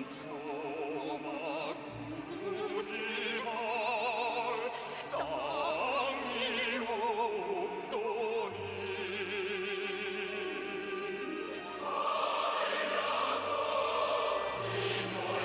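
Operatic singing with wide vibrato over orchestral accompaniment, growing fuller and louder about twelve seconds in.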